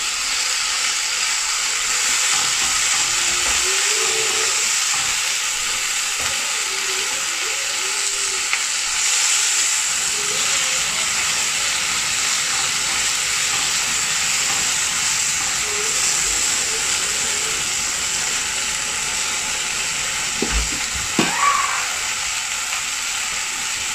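Chicken and onion skewers sizzling steadily in a hot ridged cast-iron grill pan, nearly cooked through. A couple of short knocks come near the end.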